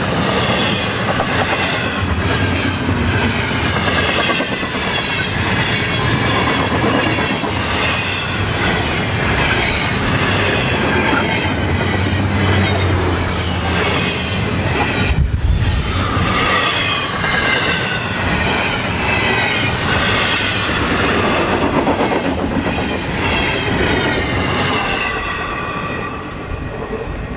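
Double-stack intermodal freight train's well cars rolling past at about 45 mph: a steady rumble of steel wheels on rail with rapid clicking over the rail joints and high, wavering squealing tones from the wheels. The sound falls away near the end as the tail of the train passes.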